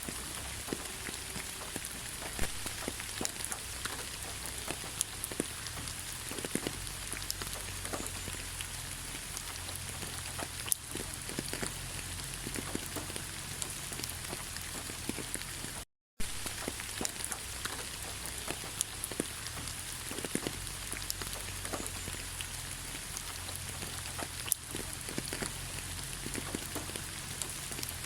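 Steady rain falling in a forest, with many scattered drops ticking close by. The sound cuts out to silence for a split second about halfway through.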